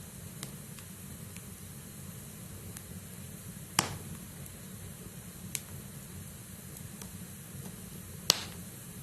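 Wood logs burning in a fireplace: a low steady rush of flame with faint crackling and three sharp pops, the loudest near the end.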